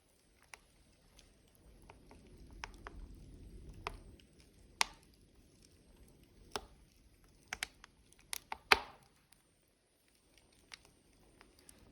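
Logs burning in a wood stove: irregular sharp crackles and pops, about a dozen, the loudest one near the end, over a low rush of flame that swells between about two and four seconds in.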